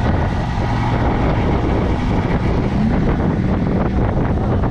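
A motor vehicle's engine running steadily, with wind buffeting the microphone.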